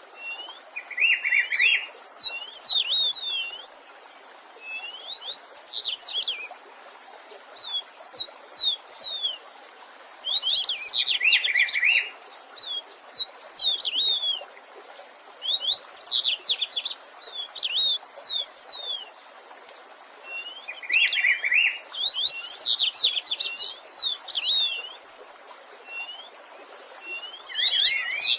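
A songbird singing short, rapid phrases of high downward-slurred notes, repeated every couple of seconds, with a lower buzzier burst now and then. Under it, a faint steady hiss of running stream water.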